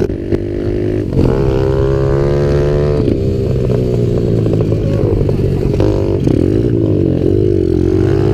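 Small single-cylinder pit bike engines running under way: the pitch rises with the throttle, drops suddenly about three seconds in, then wavers up and down as the revs change.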